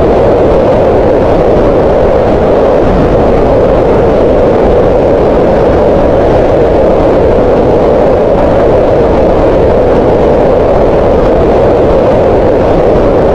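Green noise: steady, unchanging synthetic noise with its energy centred in a band around 500 Hz, falling away in the highs and lows.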